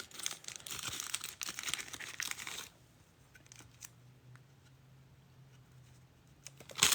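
Wrapper of a trading-card pack being torn open and crinkled for about two and a half seconds. Then a quiet stretch with a faint low hum and a few small ticks, and a short loud crinkle near the end.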